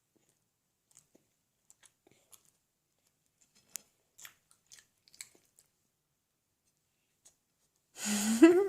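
A child chewing a peanut butter and jelly sandwich: faint, scattered mouth clicks and smacks. A voice starts near the end.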